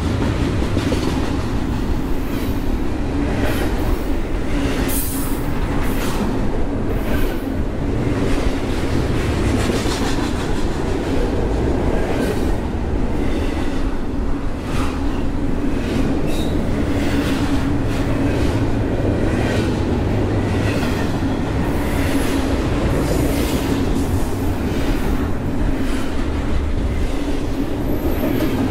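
Double-stack intermodal freight train's container well cars rolling past close by: a steady rumble of steel wheels on rail with irregular clacks and clanks throughout.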